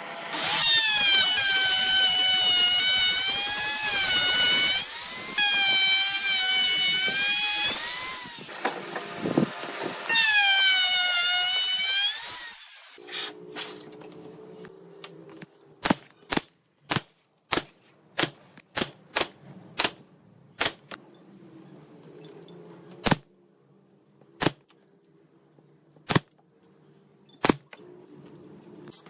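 Electric power tool motor running in three bursts with a high whine, its pitch dipping and recovering as it bites into the work. After that comes a string of sharp knocks at uneven intervals over a faint hum.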